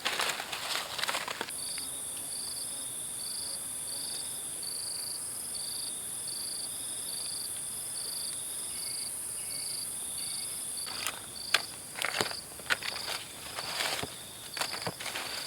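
Forest insects calling in a steady chorus: a continuous high buzz with a chirp that pulses about twice a second. Short rustling and crackling noises come at the start and again throughout the last few seconds, and these are the loudest sounds.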